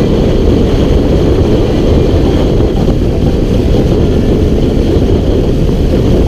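Motorcycle riding at speed: steady wind rush over the camera microphone with the engine running underneath.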